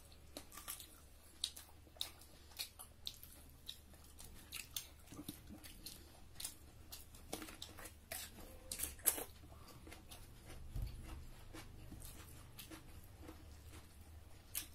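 People chewing and crunching food at close range, with crisp, irregular crunches from bites of a whole raw cucumber; the sharpest crunches come a little past the middle.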